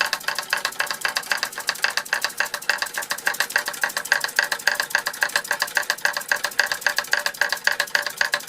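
Toy steam hammers, driven by a 1905 Fritz Neumeyer toy steam engine, tapping in a rapid, steady rhythm onto a Lego hammer block.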